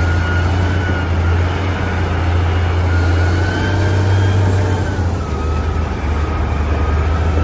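Caterpillar 990 wheel loader's diesel engine running steadily as the machine works, loading a dump truck: a deep hum with a faint wavering whine above it.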